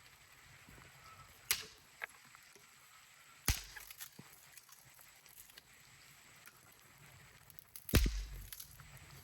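Sharp knocks of hard objects: two lighter ones about a second and a half in, a stronger one about three and a half seconds in, and the loudest, with a low thud, about eight seconds in.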